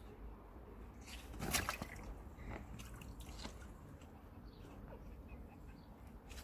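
A few faint, short watery sounds, like water dripping or lapping, the clearest about a second and a half in, over a quiet background.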